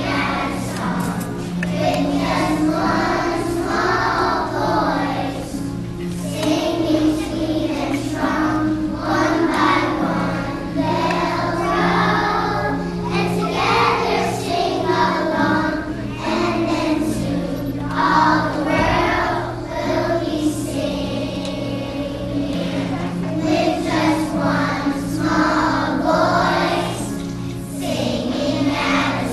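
Background music: a choir singing over sustained low accompaniment notes.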